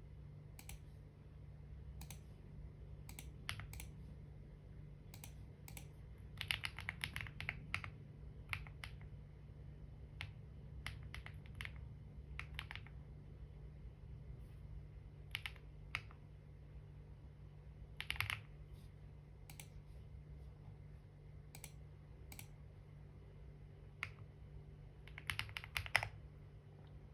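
Typing on a computer keyboard in irregular spurts: single keystrokes, then quick runs of clicks a few times, over a steady low hum.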